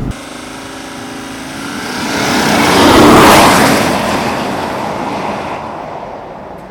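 BMW M50d's 3.0-litre straight-six diesel driving past at speed: engine and tyre noise swell, are loudest about three seconds in, then fade as the car moves away.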